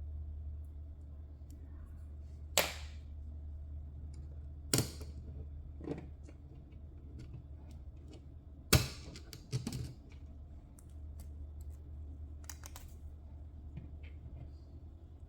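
Irregular sharp clicks and knocks of small parts and tools being handled and set down on a work surface during disassembly of a hobby RC car, three of them loud. A low steady hum sits under them.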